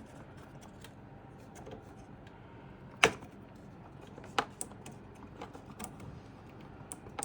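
Scattered small plastic clicks and taps of RAM sticks being handled and pressed into a motherboard's memory slots. The sharpest click comes about three seconds in, and another a little after four seconds.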